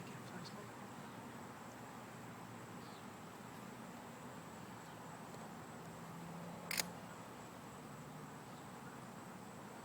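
Faint, steady hiss of outdoor night ambience, with one sharp click about seven seconds in.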